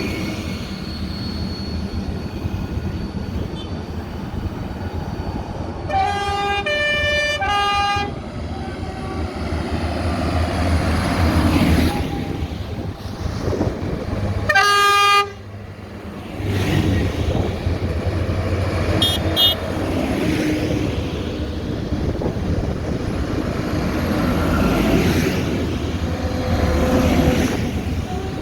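Tractor engines running steadily, with a horn sounding a short run of changing notes about six seconds in and a single horn blast at about fifteen seconds.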